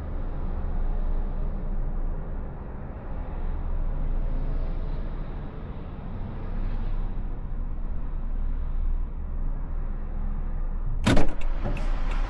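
Steady low rumble inside a car's cabin. About eleven seconds in there is a sudden loud clunk, after which a brighter hiss with scattered ticks comes in.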